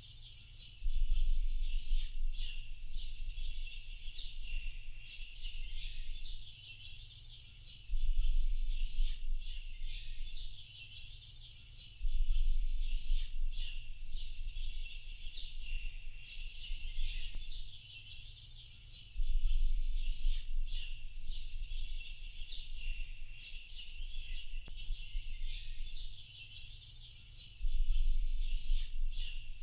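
A dense chorus of many small songbirds chirping and twittering without a break, high-pitched. A low rumble cuts in suddenly five times, each time for a few seconds, and is the loudest sound when it does.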